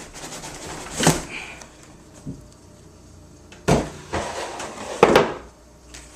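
Cardboard box and packaging being handled: several bursts of rustling and scraping, the loudest about a second in and again near the four- and five-second marks.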